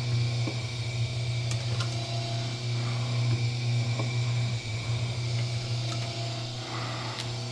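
Copper wire stripping machine running with a steady motor hum, with a few faint clicks as the cable is worked through it.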